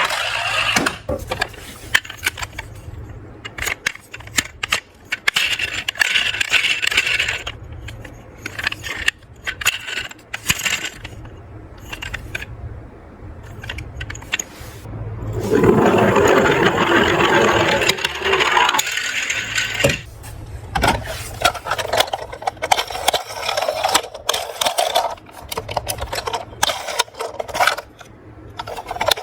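Small toy cars clinking, rattling and scraping as they are handled and run down a slope, with many sharp clicks and a louder stretch of rolling noise about halfway through.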